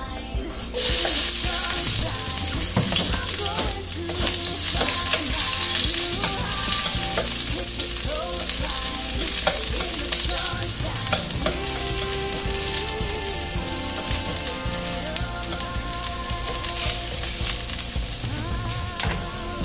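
Chopped onion and garlic dropped into hot oil in a hammered carbon-steel wok: a sudden loud sizzle breaks out about a second in. It then sizzles steadily while a wooden spatula stirs and scrapes the pieces around the pan.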